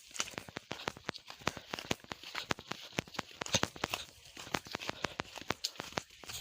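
Dry leaves and twigs crunching and crackling underfoot, a fast, irregular run of snaps.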